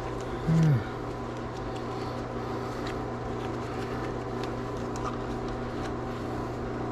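Steady mechanical background hum, with a few faint light clicks from small parts being handled and a brief hum-like vocal sound about half a second in.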